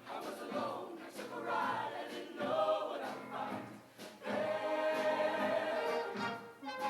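Show choir singing with band accompaniment; a long chord is held from about four seconds in.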